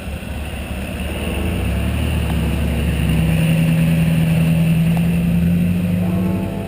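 Off-road 4x4's engine running under load, heard through a camera mounted on the vehicle, with a steady rushing noise over it. It grows louder over the first few seconds, holds, then drops back near the end.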